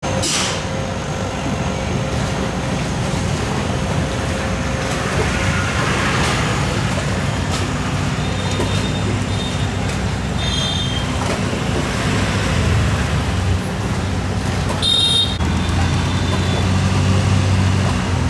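Boat engine running steadily: a low, even drone throughout, with a few short high-pitched chirps about halfway through and a brief burst of noise near the end.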